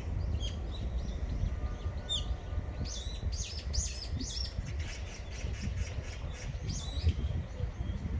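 Small birds chirping and twittering in many short, high notes, some in quick repeated runs, over a steady low rumble.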